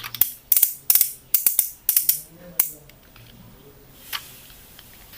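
Quick sharp clicks and snaps from something being handled, about a dozen in the first three seconds, then a lone click about four seconds in.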